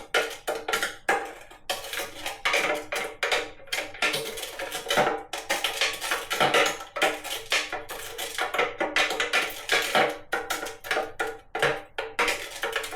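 A utensil stirring descaler into the Sage Bambino's plastic water tank, knocking and clattering against the tank walls in quick, irregular strokes as the powder is mixed in to dissolve.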